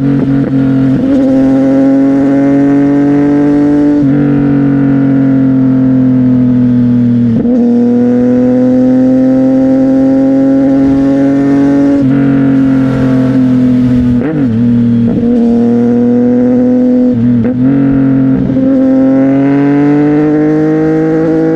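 CFMOTO 675NK three-cylinder engine running through a titanium aftermarket exhaust while riding. It holds a fairly steady pitch with slow small rises, and the note briefly drops and picks up again several times, about a third of the way in and twice more in the second half.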